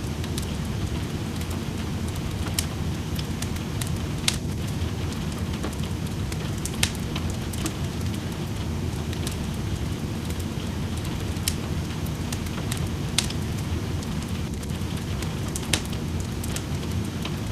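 Wood fire crackling in a fireplace, with sharp pops every second or so over a steady bed of rain.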